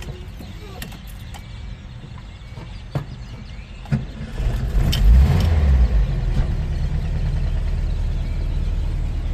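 Volkswagen Type 2 bus engine being started: a few clicks and knocks, then the engine catches about four and a half seconds in with a brief surge and settles into a steady idle.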